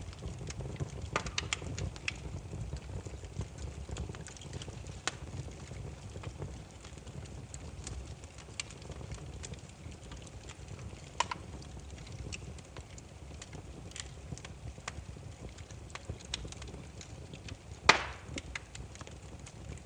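Burning firewood crackling: irregular sharp pops and snaps over a low steady rumble of the flames, with one louder pop near the end.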